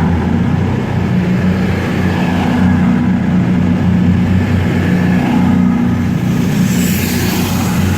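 Diesel engines of a Class 220 Voyager train running steadily at close range: a loud, low, unbroken drone.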